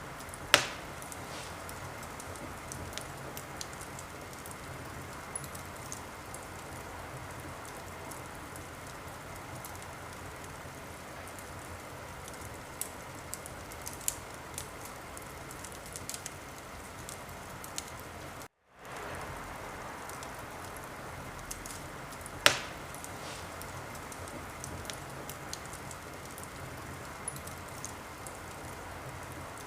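Wood fire burning in a fireplace: a steady hiss with scattered small crackles and two loud pops, one right at the start and one about two-thirds of the way through. The sound cuts out for an instant a little past the middle.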